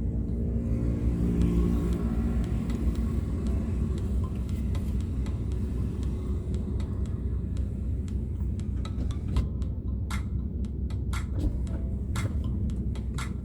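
Car engine and road rumble heard from inside the cabin, with the engine note rising briefly in the first few seconds. In the second half, a series of short sharp ticks.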